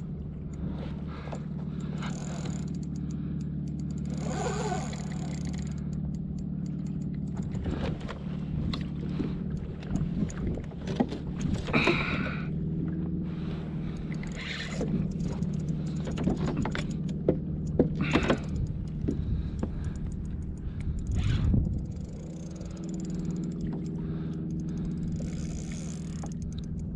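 A kayak under way on open water, with a steady low hum and scattered clicks and knocks from gear being handled on board.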